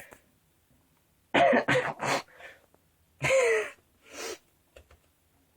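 A person coughing and clearing his throat in three short bouts, the middle one voiced with a falling pitch.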